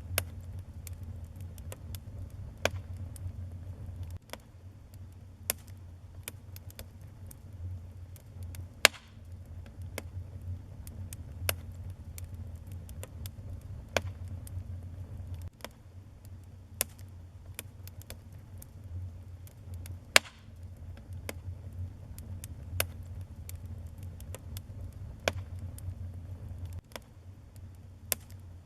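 Wood fire burning in a fireplace: irregular crackles and pops, two sharper snaps about nine and twenty seconds in, over a low steady rumble.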